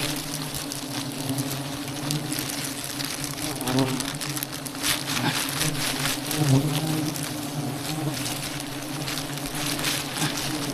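Honey bees buzzing in a steady low hum around their nest on a small branch, with scattered crackles over it.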